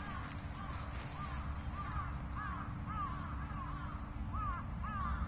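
Birds calling: a steady run of short calls, each rising and falling in pitch, a few a second and overlapping, over a low background rumble.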